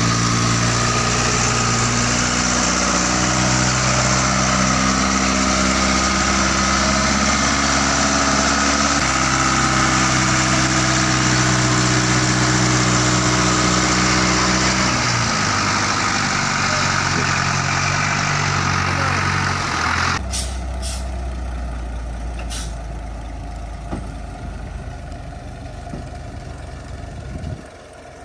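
Heavy engines running loudly under load, with an abrupt change about twenty seconds in to a quieter engine sound with a few sharp clicks.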